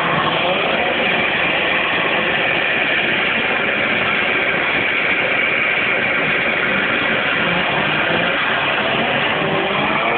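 Car engine running loud and steady, with a steady high whine over the noise.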